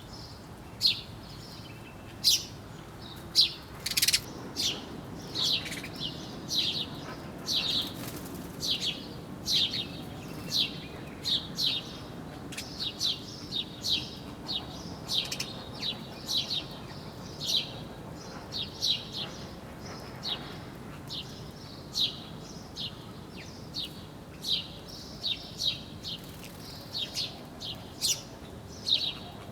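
Small birds chirping: a continuous run of short, sharp chirps, several a second, over a faint steady background hiss.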